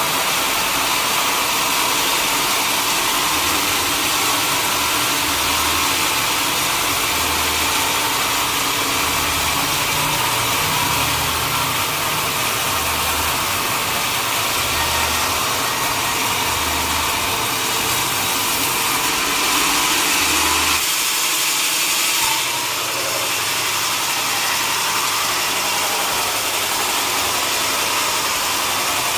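Sawmill machinery running steadily with a loud, even hiss. A low pulse comes every second or two, then stops about two-thirds of the way through, where the sound shifts slightly.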